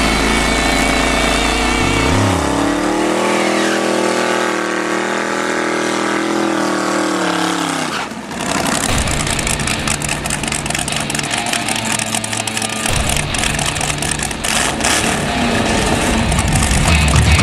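A drag car's engine revs up about two seconds in, holds at high revs for several seconds, then drops away. After a break, engines keep running with a rougher, lower rumble that grows louder near the end.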